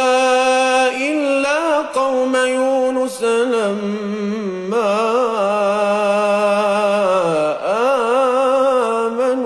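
A male Quran reciter chanting in melodic tajweed style. He holds long, drawn-out vowels with turns and wavering ornaments in the pitch, with only short breaks for breath.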